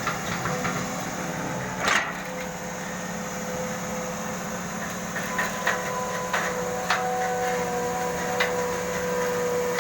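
Caterpillar 320 excavator running steadily with sharp knocks and clanks. The loudest knock comes about two seconds in, and several more follow in the second half.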